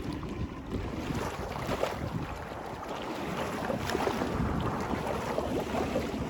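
Flood water rushing and churning as it drains, with wind buffeting the microphone.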